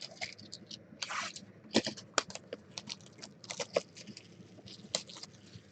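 Trading cards and their packaging being handled: a run of short clicks, taps and scrapes, with a longer rustle about a second in.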